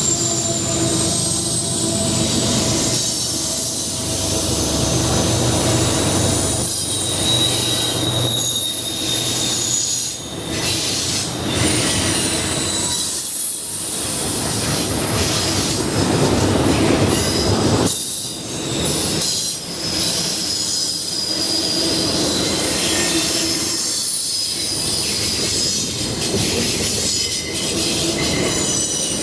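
Norfolk Southern freight train's cars rolling past, steel wheels squealing against the rail in thin, high, steady tones over a continuous rumble that dips briefly every few seconds.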